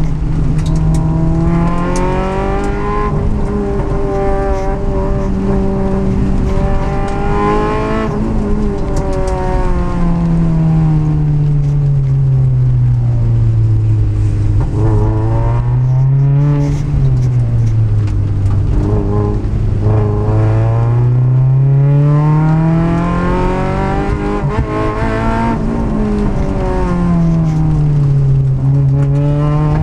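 Citroën Saxo VTS 16v's 1.6-litre sixteen-valve four-cylinder engine, heard from inside the cabin, revving hard at racing pace. Its pitch climbs and drops with gear changes and braking: a long fall to low revs through the middle, then it climbs hard again.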